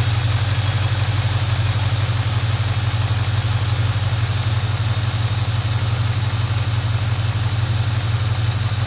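1971 Mercedes-Benz 280SE 3.5's V8 engine idling steadily, a deep, even exhaust pulse with no change in speed.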